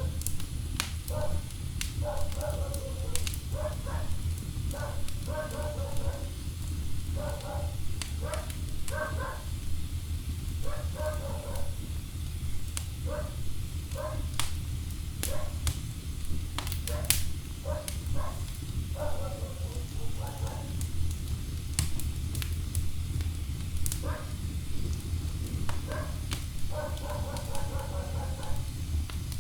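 Wood fire in a fireplace crackling, with many sharp irregular pops over a steady low rumble. Short mid-pitched sounds come every second or two.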